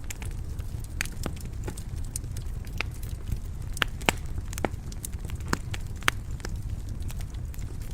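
Wood fire burning in a stone fireplace: irregular sharp crackles and pops over a steady low rumble of the flames.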